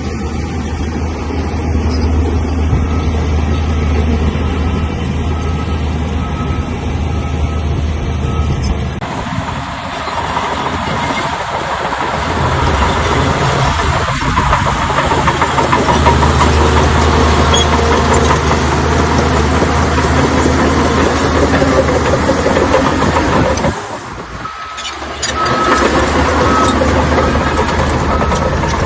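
Heavy diesel engine of a Shantui crawler bulldozer working steadily, with a rougher clattering noise joining in about nine seconds in and a brief drop in level near the end.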